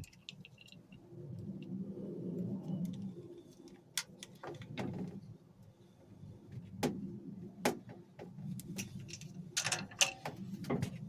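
Small metal pipe and fittings being handled and worked into place, with a low rubbing noise and a scattering of sharp clicks and clinks.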